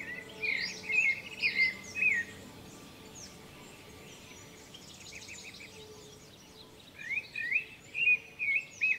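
Birds chirping: quick, rising and falling calls in a busy cluster over the first two seconds or so, thinning out, then another cluster from about seven seconds in. Faint held music tones fade out beneath them early on.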